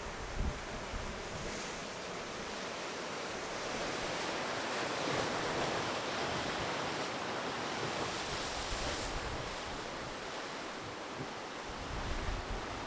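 Ocean surf washing onto the beach: a steady hiss that swells for several seconds in the middle and then eases off.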